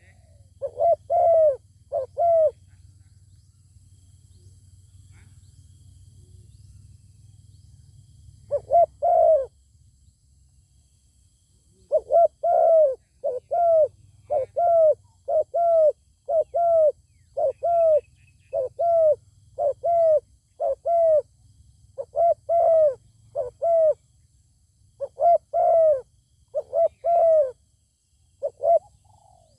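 Spotted doves cooing: short groups of low, arched coo notes repeated over and over, with a pause of a few seconds early on and a low rumble underneath.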